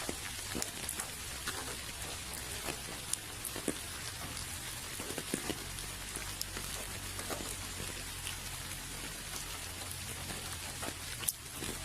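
Steady rain falling: an even hiss dotted with the sharp ticks of individual drops striking a surface close by, one harder drop hitting near the end.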